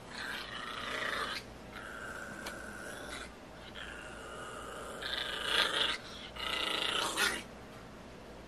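Recorded dog vocalizations played through a smartphone's small speaker, coming in about four bursts with short gaps between them and stopping near the end.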